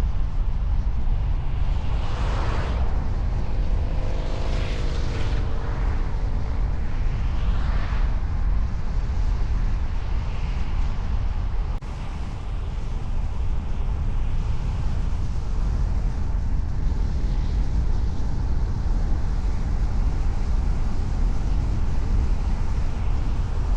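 A car being driven, with steady low road and engine rumble as heard from the moving vehicle, plus a few swelling sweeps in the first several seconds that sound like passing traffic.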